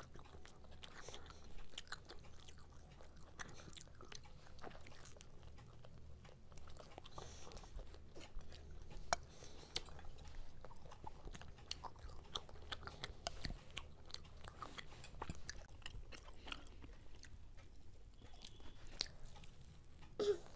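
Close-up chewing and biting of Mughlai paratha, a fried egg-stuffed flatbread, by two people eating, with many short irregular crunchy clicks.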